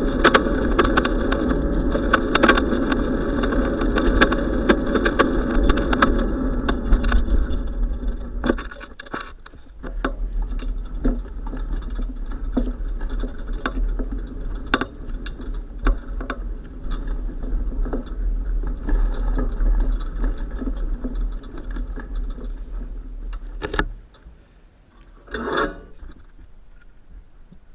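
Ride noise from a bicycle: a steady rumble and hiss, with many small clicks and rattles. It gets quieter about a third of the way in and again near the end, with a short louder burst just before the end.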